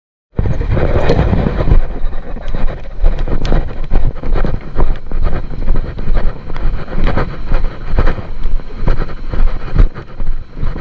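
Wind buffeting a GoPro HERO 8's microphone out on the sea, coming in irregular gusts over the rush of water. It cuts in abruptly just after the start.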